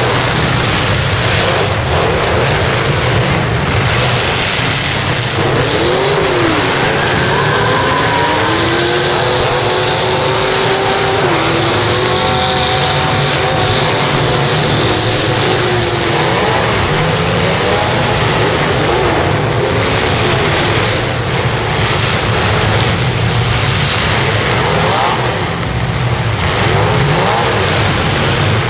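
Many full-size demolition derby cars' engines running and revving together, loud and continuous, with revs rising and falling several times between about 5 and 17 seconds in.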